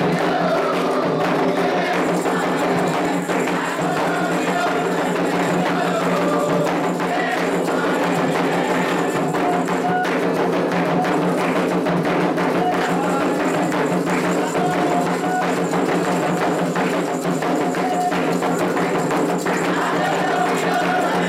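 Candomblé ritual drumming: atabaque hand drums playing a steady, driving rhythm for Oxossi's dance, with a bell and chanting voices over the drums.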